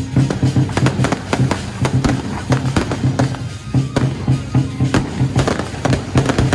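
Rapid, irregular cracks and bangs of electronic firecrackers over loud music with a pulsing low beat.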